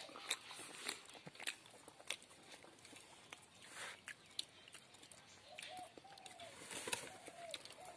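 A bird calling faintly in a series of short arching notes in the second half, over scattered small clicks and taps.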